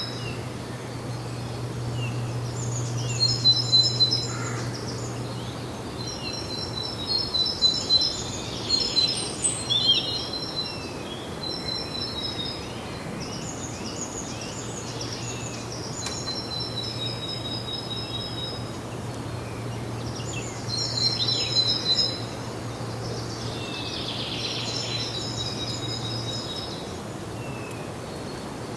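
Small songbirds chirping and singing in repeated high-pitched phrases over a steady background hiss and a low hum.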